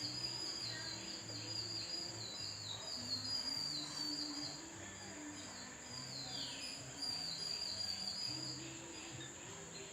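Steady high-pitched insect drone, cricket-like, with a run of quick falling chirps, over low, soft background music that moves in slow held notes.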